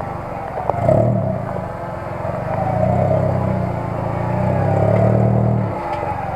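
Off-road 4x4 truck engine running under load, revving up and easing off in three surges.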